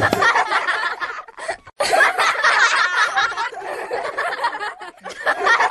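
A group of girls laughing and giggling together, with a short break about a second and a half in.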